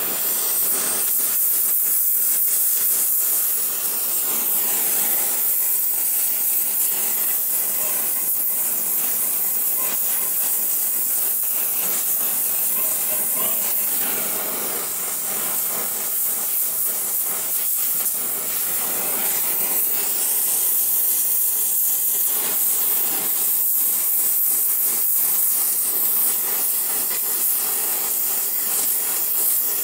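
Oxy-fuel torch with a small heating tip burning with a steady hiss while it heats a seized stud in a cast iron exhaust manifold.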